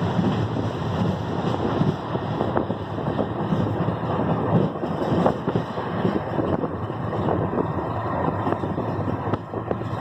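Passenger train running, heard from on board: a steady rumble with wind buffeting the microphone.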